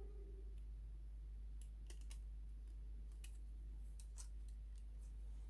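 Scattered small, sharp clicks and taps of small parts of a floppy disk drive being handled and fitted by hand, starting about a second and a half in, over a steady low hum.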